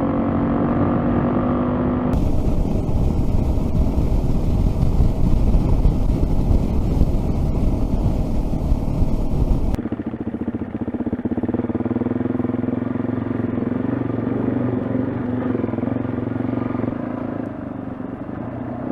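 Adventure motorcycle engine running as the bike is ridden, with heavy wind rush over it. The sound changes abruptly about two seconds in, when the wind noise thickens, and again near ten seconds, when the engine note comes back to the fore.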